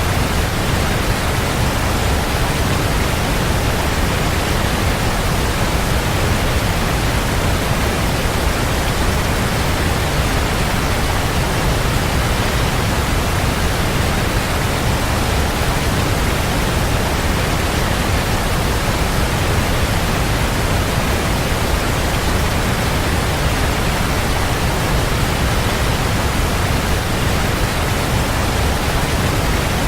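Waterfall: water falling and splashing in a steady, dense rush, heaviest in the low end, without any change.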